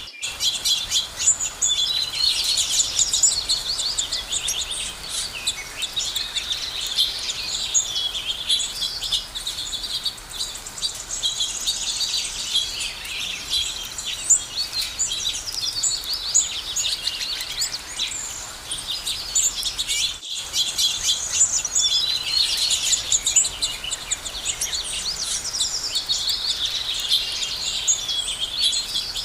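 A chorus of several songbirds chirping and trilling together in dense, overlapping high calls, with a momentary break in the sound about two-thirds of the way through.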